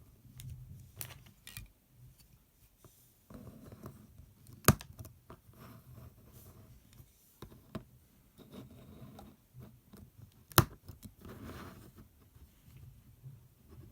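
Tiny plastic building blocks being handled and pressed together, with soft rustling and small ticks, and two sharp clicks about five seconds in and again about six seconds later.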